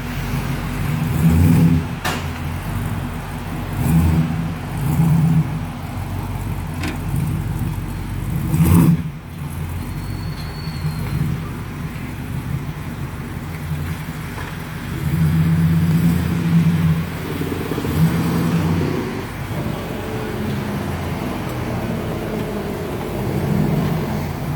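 1971 Chevrolet Chevelle's engine idling through its newly finished exhaust, with a handful of short throttle blips that swell and fall back to idle.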